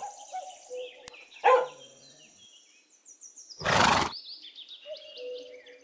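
A dog barking: one short bark about a second and a half in, then a louder, rougher bark near four seconds, with faint high chirping in the background.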